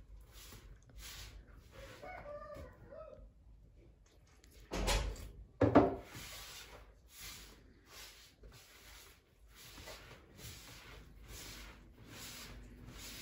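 Soft, evenly repeated squishing strokes of a flour-and-water dough being kneaded by hand, about one every half second or so. A chicken calls briefly about two seconds in, and two loud knocks come about five seconds in.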